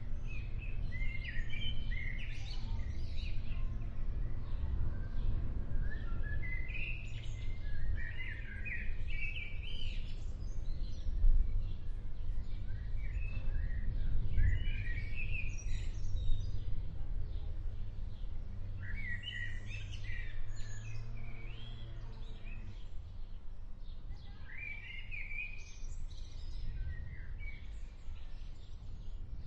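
Songbirds singing short warbled phrases that recur every few seconds, over a steady low rumble.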